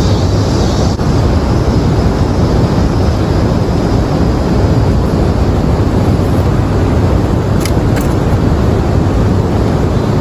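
Steady rushing roar of water pouring through a dam spillway.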